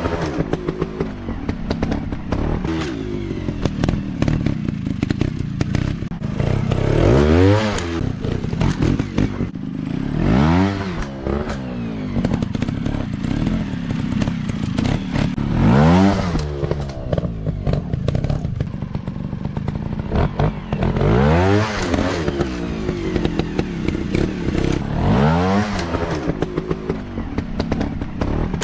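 Dirt bike engine revving hard and dropping back, again and again, its pitch climbing and falling about seven times, with clattering and knocks throughout.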